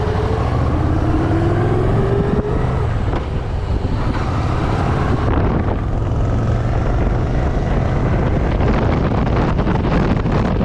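Motorcycle engine running while riding, with wind noise on the microphone; its pitch rises in the first few seconds as the bike accelerates, then it settles into a steady drone.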